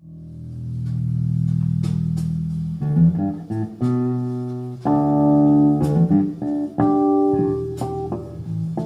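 Guitar playing: a low held chord swells in, then picked notes and chords start about three seconds in.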